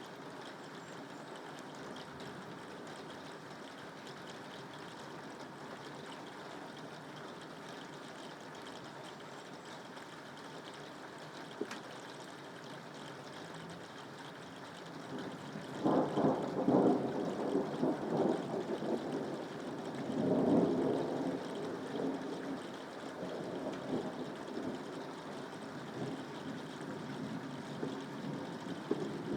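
Steady rain falling. About halfway through, a louder low rumble comes in, swelling twice and then easing off.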